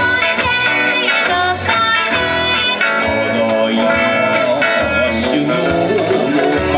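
Kawachi ondo bon-dance music played live, with electric guitar prominent over a steady beat.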